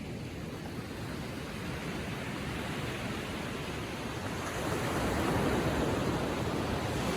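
Gentle ocean waves lapping on a beach: a steady wash of surf that swells louder about four and a half seconds in.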